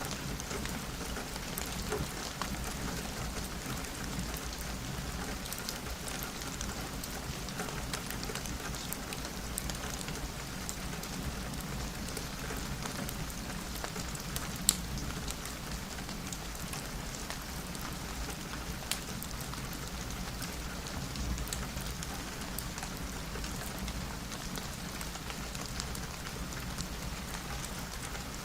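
Steady rain falling on a window, with a few sharp clicks now and then, the loudest about halfway through.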